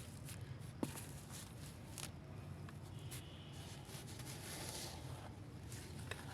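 A few faint, sharp taps over a low steady hum.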